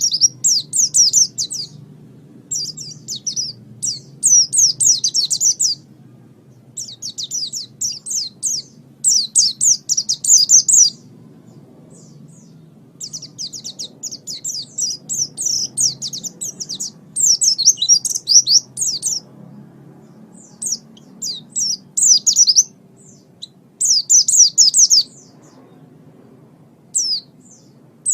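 A white-eye (pleci) singing: rapid, high twittering phrases of one to two seconds each, with short pauses between them, over a faint low hum.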